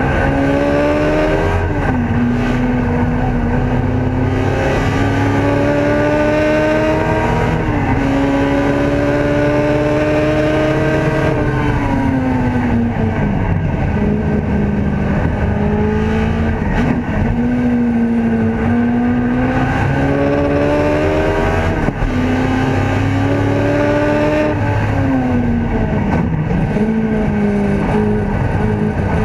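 Ford Escort race car's engine heard from inside the cabin, running hard under load, its pitch climbing steadily with quick drops at gear changes and two longer falls over a couple of seconds, around halfway and near the end, before picking up again.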